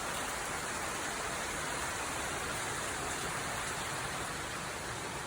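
Steady rain falling, an even hiss with no other distinct sounds.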